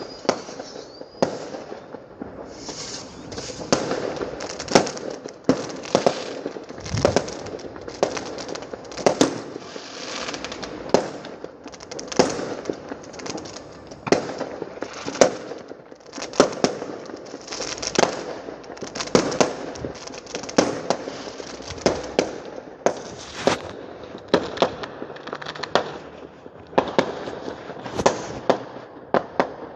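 Fireworks going off on bonfire night: a steady run of sharp bangs, about one to two a second, with crackling between them.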